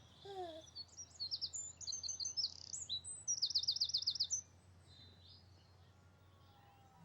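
A songbird singing a string of quick, varied high chirps, then a fast trill of about seven notes; the song stops about four and a half seconds in.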